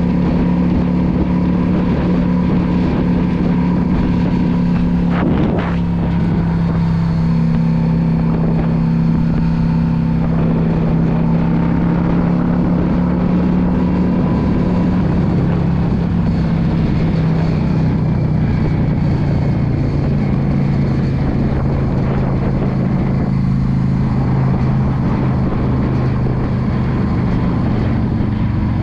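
2016 Yamaha V Star 650 cruiser's air-cooled V-twin engine running steadily at road speed. Its note breaks briefly about five seconds in, then drops lower about seventeen seconds in and holds there.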